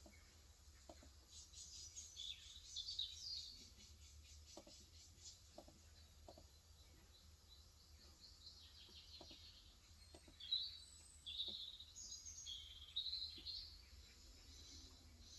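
Songbirds chirping and trilling in two spells, with a few soft, widely spaced key presses from a Cox Endeavor electro-capacitive (Topre-style) keyboard with 35 g switches.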